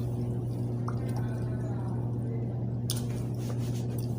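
Someone chewing hard bread, with a few short wet clicks and smacks over a steady low hum.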